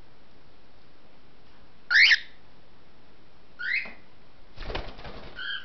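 Cockatiels giving two loud chirping calls, the first the loudest, then a short flurry of wing flaps as a bird takes off, and a brief call near the end.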